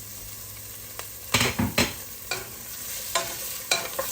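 Garlic and ginger frying in oil in a pan, with a steady sizzle. Several sharp clinks and knocks of metal kitchenware come over it, the loudest about a second and a half in.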